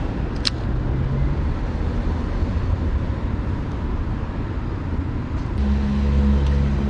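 Low, steady rumble of passing traffic, with a sharp click about half a second in. About five and a half seconds in, a nearby motor's steady drone sets in and becomes the loudest sound.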